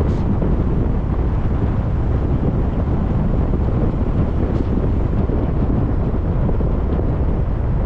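Car driving: a steady low rumble of tyre, road and engine noise mixed with wind noise.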